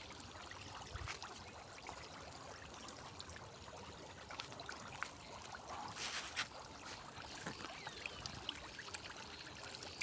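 Faint trickle of running water, with scattered small ticks and a short rush of noise about six seconds in, over a steady thin high-pitched whine.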